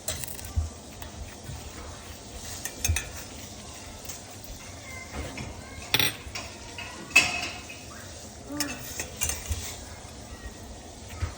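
Metal clinking and knocking against a pot as automotive thermostats are handled in hot water to test whether they open, over a steady hiss. The clinks are irregular, with the sharpest about six and seven seconds in.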